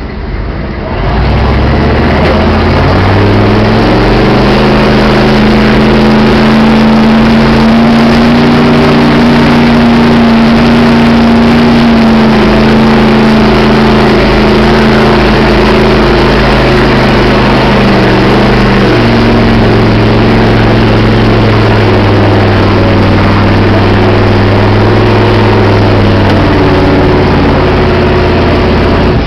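Turbocharged 6.5-litre V8 diesel in a 1984 Chevrolet 3/4-ton pickup, heard from inside the cab under full load during a truck pull. It revs up sharply about a second in and holds at high revs, with the pitch sagging a little past the middle as the load grows, then holding until it stops at the end.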